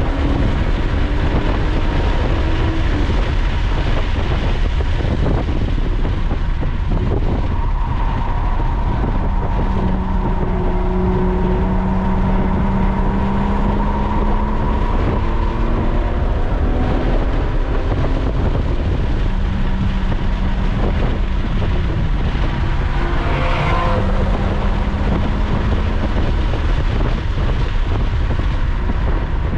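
Lotus Evora's V6 engine running hard on a track lap, heard from inside the cabin, its note falling and rising again as the car slows and picks up speed, over steady tyre and wind noise.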